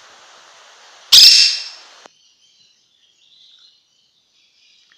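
A baby quaker parrot gives one loud, harsh screech about a second in, fading within a second. A faint short chirp follows a couple of seconds later.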